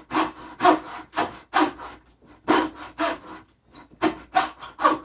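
Hand hacksaw cutting through wood in quick back-and-forth strokes, about two a second, each stroke a rasping scrape.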